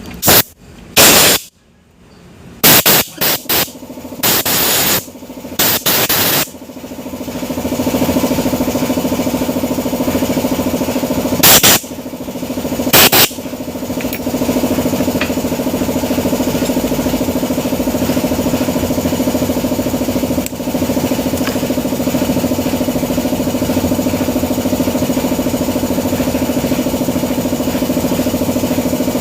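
Brush cutter engine being started: four loud bursts of starter pulls in the first six seconds, then the engine catches and runs, with two more loud bursts around twelve and thirteen seconds before it settles into a steady idle. The engine is one that has been hard to start from flooding.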